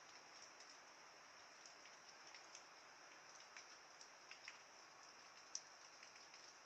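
Faint rain: a steady hiss with scattered drops ticking irregularly, one sharper drop about five and a half seconds in.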